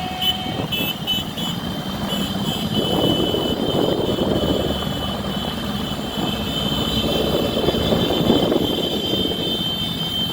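Steady running noise of a vehicle on the move: engine and road rumble with wind. It swells twice, about three seconds in and again near eight seconds.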